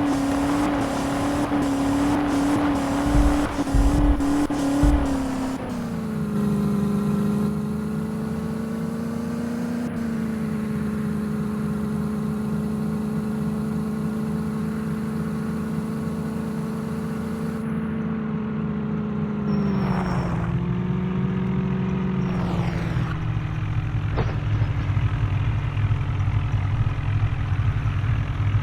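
Tractor diesel engine running hard under load, as in a tractor tug-of-war pull. Its note drops in pitch about six seconds in and again about twenty seconds in, as the engine is pulled down. There are a few knocks in the first five seconds.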